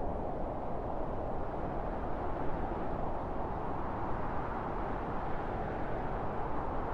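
Wind blowing steadily: an even, low rushing noise with no gusts or breaks.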